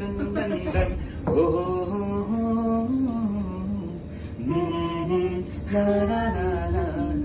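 A voice singing a slow melody without accompaniment, in long held notes, with short breaths between phrases about a second in and near four and a half seconds.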